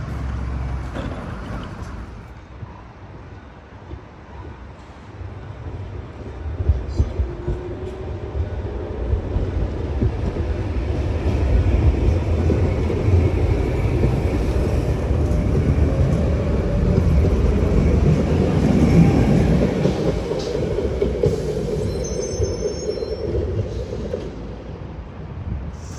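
Gothenburg tram running on its rails, the rumble building from about six seconds in and loudest through the middle, with a faint whine that rises slightly in pitch.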